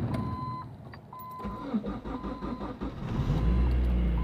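1999 Mazda Protege's 1.8-litre four-cylinder cranking on the starter in −25°C cold, stuttering as it fires, then catching about three seconds in and settling into steady running. A beep sounds on and off throughout.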